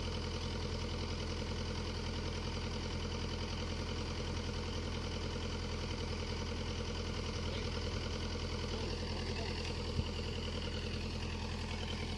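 Excavator's diesel engine idling steadily, with a single short knock about ten seconds in.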